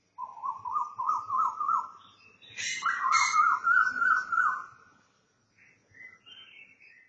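Birds calling before dawn: one bird gives two quick runs of repeated rising notes, about a second and a half each, with a pause between them. Other birds chirp higher over it, and softer chirping follows near the end.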